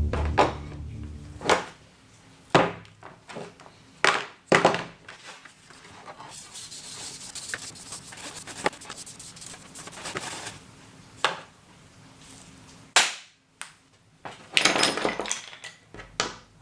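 A series of irregular sharp knocks and clicks, with a few seconds of rough hissing noise in the middle and a quick cluster of knocks near the end.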